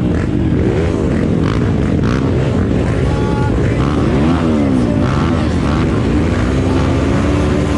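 Several motocross bikes' engines revving at once, their pitches rising and falling and crossing one another as the riders open and close the throttle.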